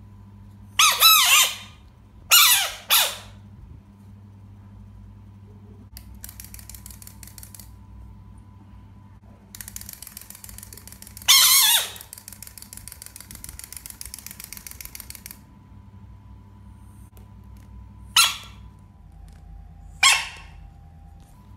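A wind-up toy chick hopping, its clockwork mechanism making a fast, even clicking whirr in two runs, the longer one lasting about six seconds. Several short, loud squeaks falling in pitch sound out over it, with a steady electrical hum underneath.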